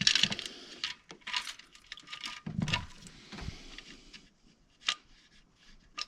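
Irregular scraping, rustling and clicking as a timing chain guide and timing chain are handled and worked into the front of an engine, with a sharp click a little before the end.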